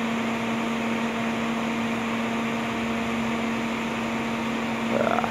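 Thermal Arc 400 GMS welding power source switched on and idling, its cooling fan running with a steady hum.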